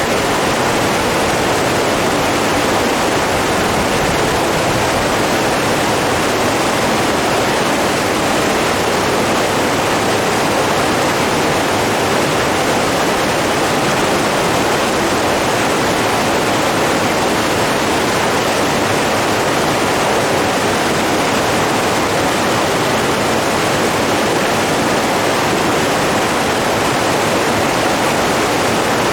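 Running water rushing steadily and evenly, without breaks.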